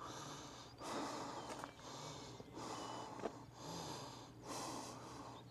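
A man breathing heavily while walking: a faint, regular run of breaths in and out, roughly one a second.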